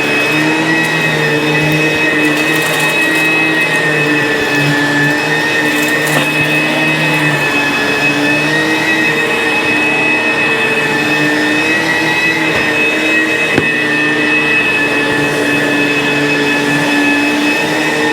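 ProTeam ProForce 1500XP upright vacuum cleaner running steadily over carpet: a constant loud motor whine whose pitch wavers slightly as the load changes.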